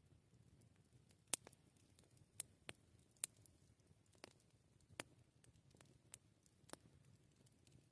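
Wood campfire crackling softly: sharp pops and snaps at irregular intervals, the loudest about a second in, over a faint low background.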